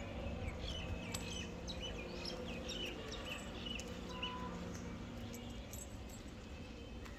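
Birds chirping: many short, high chirps over steady outdoor background noise, thinning out after the first few seconds.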